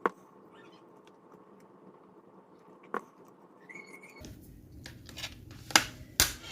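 Cutlery clicking against a plate: a few sharp, separate clicks, the loudest two close together near the end.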